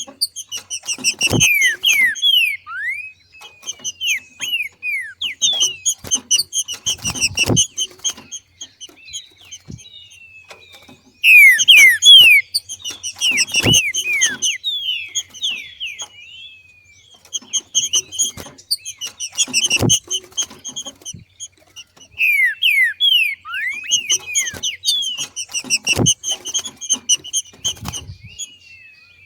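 Female green-winged saltator (trinca-ferro) giving its 'macheado', the male-like chattering call: bouts of rapid high chirps and falling whistled notes lasting a few seconds, with short pauses between. A low thump comes about every six seconds.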